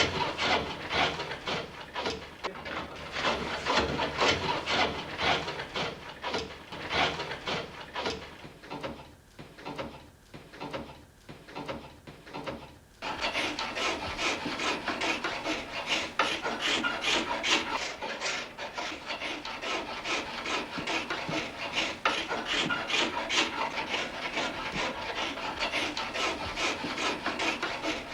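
A hand woodworking tool shaving and scraping wood in repeated strokes. It goes quieter for a few seconds, then about 13 seconds in the sound changes abruptly to faster, denser strokes.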